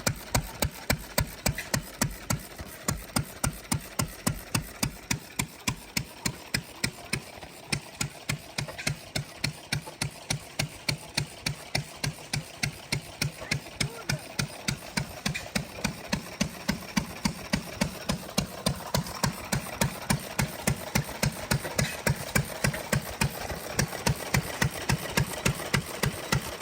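Hit-and-miss engine running, its exhaust giving a regular pop about three times a second, as it drives an old washing machine.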